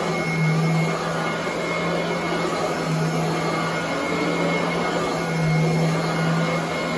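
Royal commercial upright vacuum cleaner running on carpet. It is a steady whir with a low hum that swells and eases about every two and a half seconds, and a thin high whine on top.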